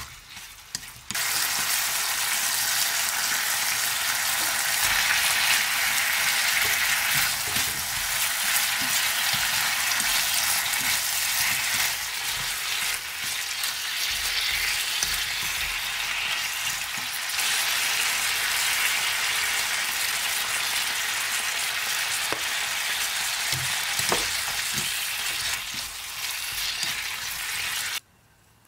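Beef sirloin strips, leek, garlic and bok choy sizzling in a frying pan as they are stir-fried with wooden chopsticks. The sizzle comes up loudly about a second in, with a few clicks later on, and cuts off suddenly near the end.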